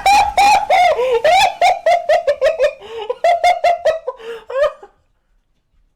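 A long run of high-pitched giggling laughter, quick rising-and-falling "ha"s at about four a second, which stops abruptly about five seconds in.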